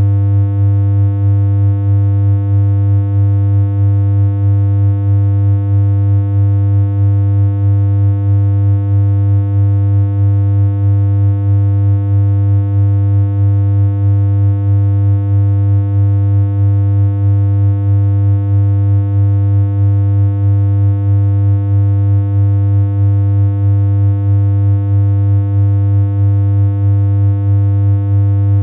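Steady synthesized low-pitched electronic hum: one unchanging buzzy tone with a slight regular pulse in loudness.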